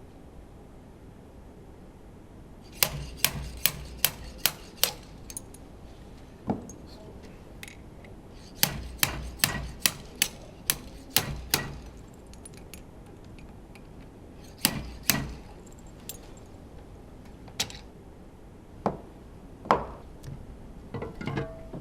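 Sharp metal taps and knocks from work on engine parts. They come in runs of several strikes, about two or three a second, then single or paired knocks further apart.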